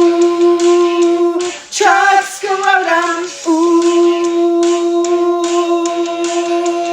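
Wordless singing over backing music: a long held note, broken about two seconds in by a short run of sliding, wavering notes, then held again.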